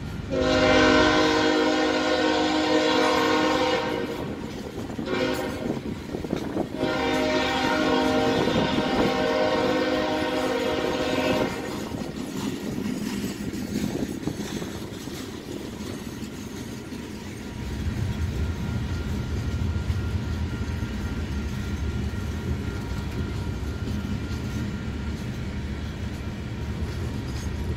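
Diesel locomotive air horn sounding two long blasts, the second a little longer, followed by the steady rumble and clatter of coal cars rolling past on the rails, which deepens and grows louder about two-thirds of the way through.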